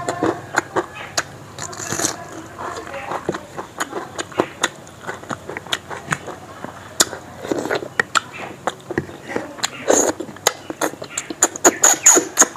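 Close-up eating sounds: chewing and lip smacking, made up of irregular sharp clicks as rice and chicken gravy are eaten by hand. The smacks come louder and thicker about ten seconds in and again near the end.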